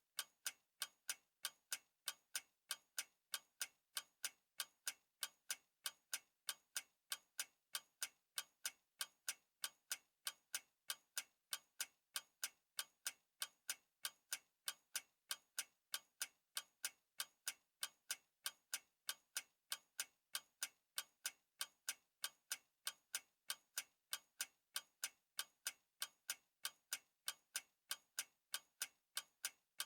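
Clock ticking steadily, with sharp, even ticks about two a second.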